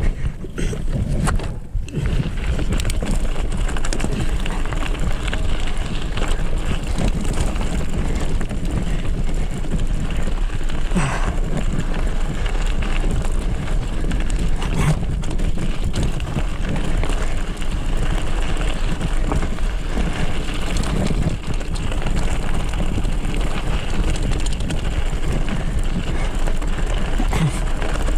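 Wind buffeting a mountain bike rider's camera microphone over the steady noise of knobby tyres rolling on a rocky dirt trail, with a few knocks from the bike along the way.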